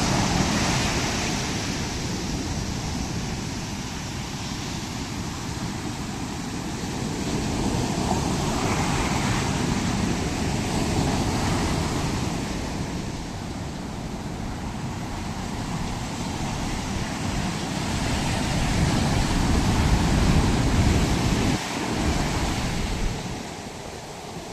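Ocean waves breaking and washing up the beach, swelling and falling back every few seconds, with wind buffeting the microphone.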